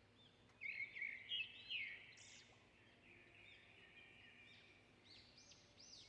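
Faint chirping of small birds: a cluster of quick calls about a second in, then sparser calls.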